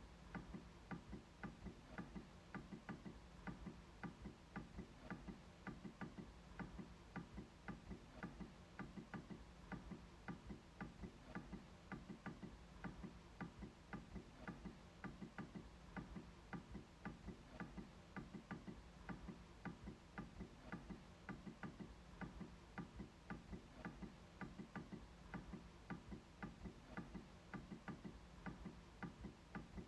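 MacBook trackpad being clicked over and over, faint, rapid, fairly even clicks at about three to four a second.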